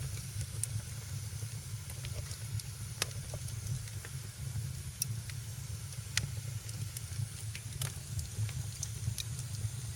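Wood fire burning in a fireplace: a steady low rumble and hiss of the flames, with sharp crackles and pops every second or two.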